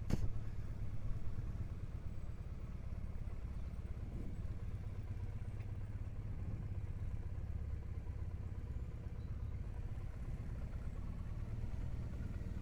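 Triumph Bonneville parallel-twin motorcycle engine running steadily while riding, a low even drone. There is a short sharp click right at the start.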